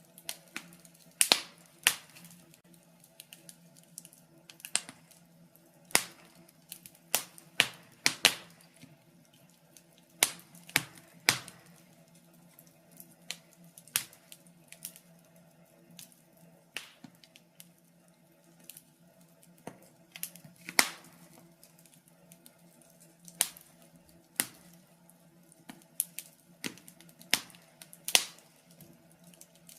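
Wood fire crackling in a fireplace: irregular sharp pops and snaps every second or two, some much louder than others, over a faint low steady hum.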